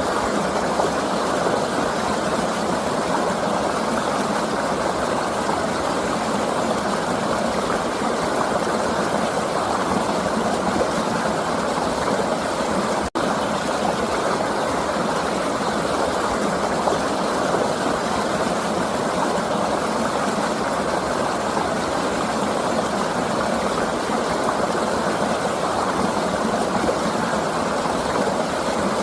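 River water flowing and rushing steadily, with a split-second break about halfway through.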